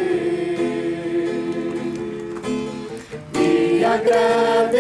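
Congregation singing a Portuguese worship song with guitar accompaniment: a long note held on the end of one line, then the voices come in with the next line about three seconds in.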